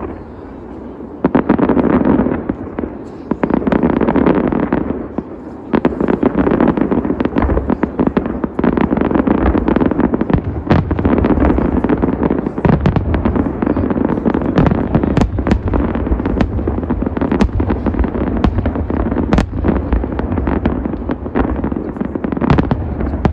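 Large aerial fireworks display: a dense barrage of shell bursts, with many sharp bangs and crackles over a continuous rumble, after a brief lull about a second in.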